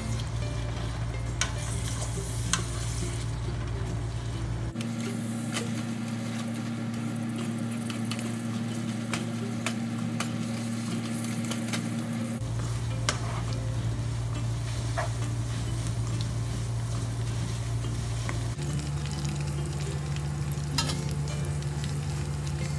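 Young cassava leaves sizzling as they deep-fry in oil in a non-stick wok, turning crisp, while a wooden spatula stirs them with frequent scraping clicks against the pan. A low steady hum runs underneath and changes pitch abruptly a few times.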